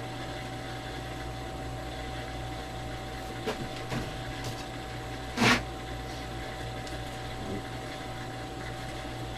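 Steady low hum in a small workshop, with a few light taps and one sharp knock about halfway through as wooden parts are handled while gluing.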